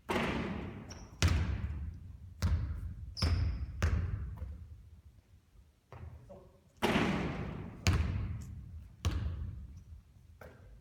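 A basketball bouncing on a hard court floor with a long echo. It comes in two groups: a louder hit at the start, then four bounces over the next four seconds; another loud hit about seven seconds in, then three more bounces about a second apart.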